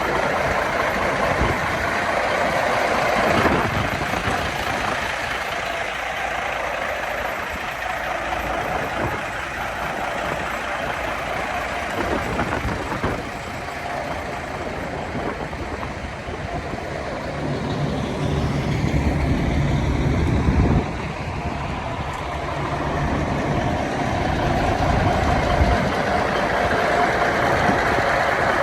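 1990 International truck engine running steadily. About two-thirds of the way through, it comes up for about three seconds with a deeper, louder note, then drops back suddenly.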